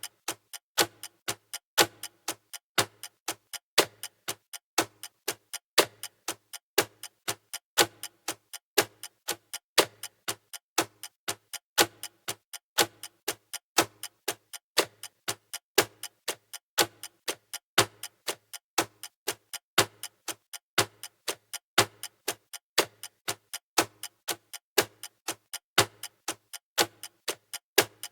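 Clock ticking sound effect: sharp, even ticks repeating in a steady rhythm.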